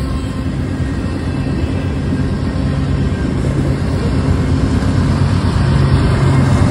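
Freight train of covered hopper cars rolling past with steady wheel-on-rail noise, and a diesel locomotive at the tail of the train approaching, its engine hum growing louder toward the end.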